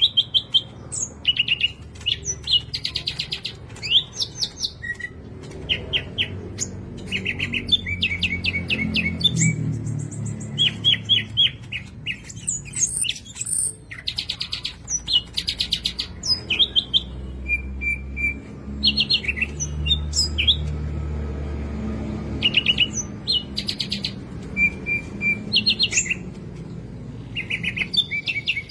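A songbird singing in quick bursts of rapid repeated chirps and trills, one phrase after another, over a faint low background rumble.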